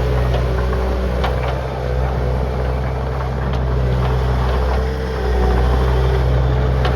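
Diesel engine of a Bobcat T300 compact track loader running steadily, with a few faint clicks and a slight rise in level about five seconds in.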